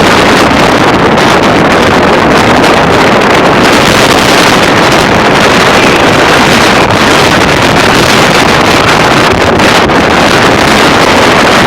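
Strong wind gusting at 40 to 60 mph, battering the microphone with a loud, steady rush of noise.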